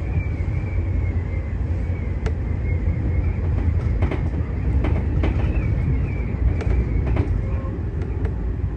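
Tobu 30000 series electric train running on the rails: a steady low rumble of wheels and track, with a faint wavering high whine and scattered clicks from the rails.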